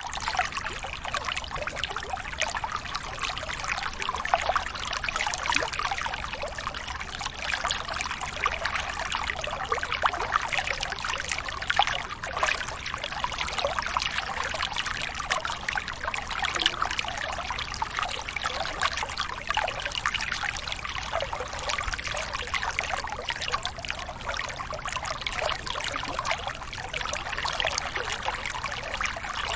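Waterfall: falling water splashing and rushing, steady throughout, with many small bright splashes.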